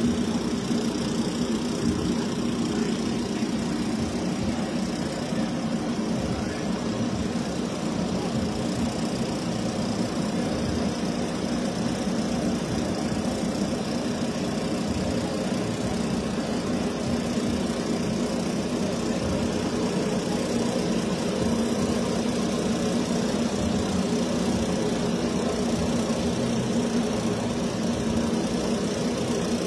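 Drag-race car engines idling steadily, with no revving.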